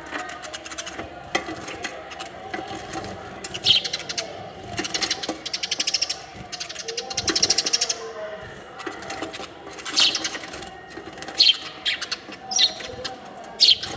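Small birds making short high chirps several times, with two longer bursts of rapid rattling a little after the middle.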